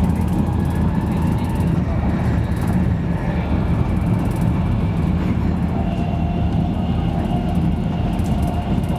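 Steady low rumble of a Virgin Trains Class 390 Pendolino electric train running at speed, heard from inside the passenger coach. A faint higher whine joins about six seconds in.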